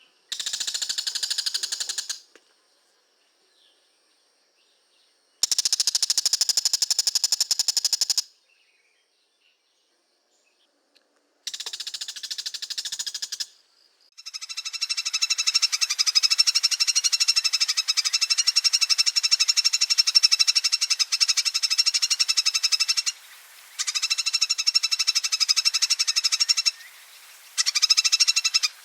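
A bird's long, rapid chattering 'ngekek' rattle, given in six bursts of about two to nine seconds each with short silent gaps; the longest runs for about nine seconds from about halfway through.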